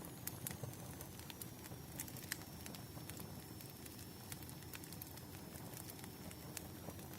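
Burning firewood crackling: scattered sharp pops and snaps over a soft, steady low rumble.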